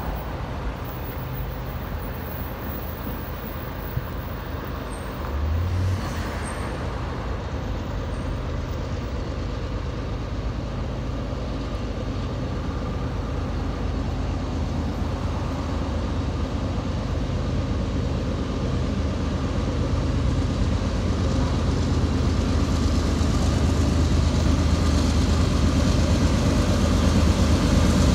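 Diesel freight locomotives approaching, their low engine rumble growing steadily louder as they near, with a brief low swell about six seconds in.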